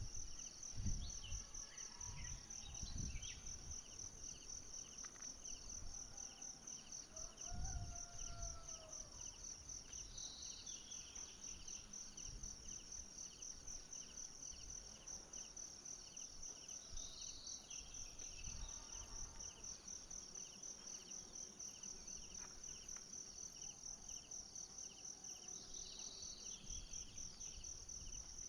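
Forest insects trilling steadily, a fast-pulsing high buzz with a second, lower pulsing trill under it. A short call comes in three times, about every seven or eight seconds, and there are a few low thumps in the first several seconds.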